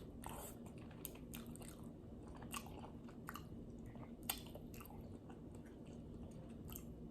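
A person chewing a mouthful of seafood boil close to the microphone: soft, scattered wet mouth clicks and smacks, with a slight crunch.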